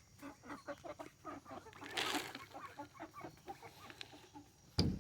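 A flock of backyard chickens clucking, many short calls overlapping. There is a brief rustle about two seconds in and a sharp thump near the end.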